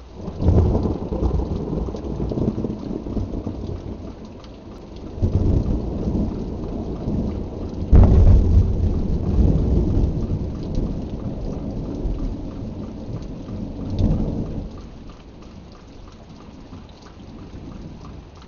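Thunder rumbling in several long rolls over steady rain. The loudest peal breaks sharply about eight seconds in, and the rumbling dies away a few seconds before the end, leaving only the rain.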